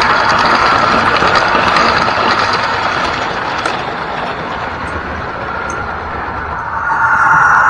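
Hornby Deltic model locomotive running, its onboard sound player giving Deltic diesel engine sound through a small speaker along with mechanism and wheel noise. It grows fainter a few seconds in and louder again near the end.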